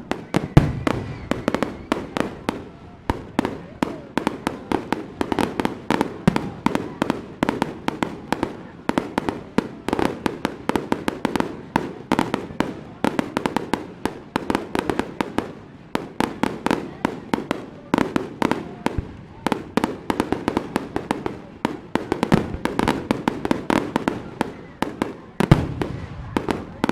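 Fireworks going off in a rapid, irregular barrage of sharp cracks and pops, several a second and overlapping, over a rumble of echo. It starts abruptly and keeps up without a break.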